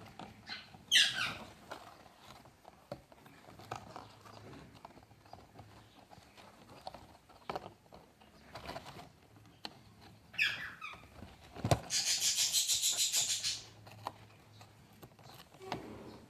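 Parrots squawking at each other in a squabble: two sharp screeches that fall in pitch, about a second in and again near ten seconds, and a rapid pulsing, rasping screech lasting about a second and a half. Scattered light tapping and scratching fills the gaps.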